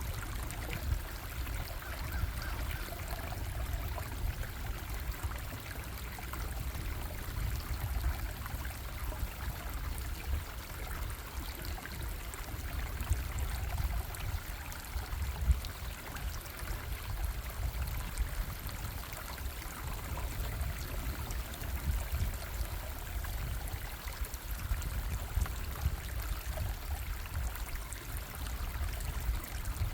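Bubbling stream, running water flowing steadily, with a low rumble underneath.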